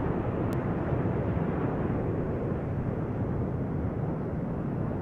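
Jet aircraft overhead: a steady, even rush of engine noise.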